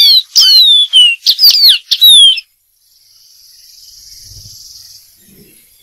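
Dark-throated seedeater singing a rapid run of loud, clear whistled notes, many sliding down in pitch, that stops about two and a half seconds in. A soft high hiss follows.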